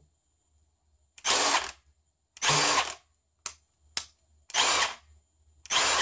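Milwaukee mid-torque 1/2-inch impact wrench, freshly rebuilt with a friction-ring anvil, run in four short bursts of about half a second each as it is test-fired after reassembly.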